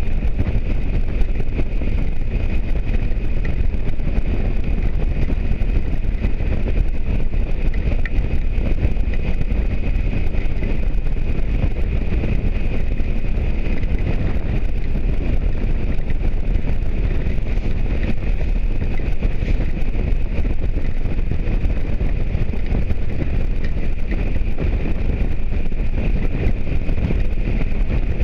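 Motorcycle under way at a steady speed: constant wind rush on the microphone over engine and road noise.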